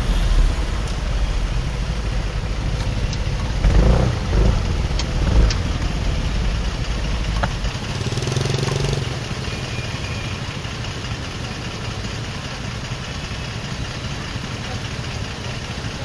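Motorcycle engine and surrounding street traffic while riding. The heavy low rumble, with a few louder bumps, drops off about halfway through, leaving a quieter steady engine sound.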